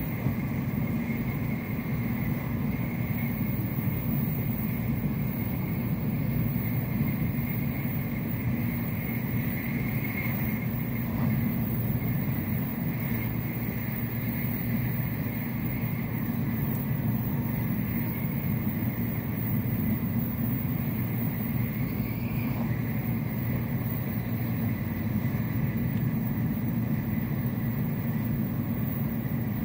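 Steady cabin noise of an N700S Shinkansen running at speed: a low, even rumble with a faint high whine over it, heard inside the passenger car.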